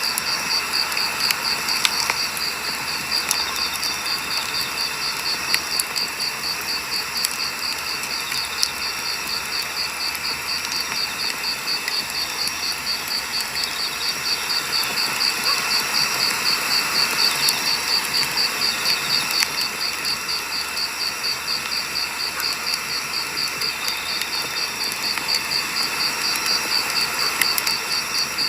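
Firewood burning in a campfire, with scattered sharp crackles and pops over a steady hiss. A high-pitched insect chirps steadily, a few times a second.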